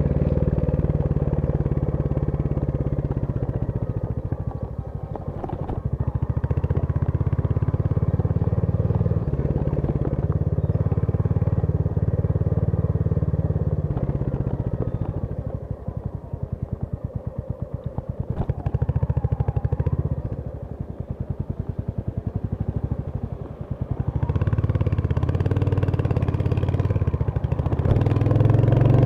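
Royal Enfield Hunter 350's single-cylinder engine running on a ride. In the middle the revs drop for several seconds, so the separate firing pulses can be heard, and near the end it picks up again.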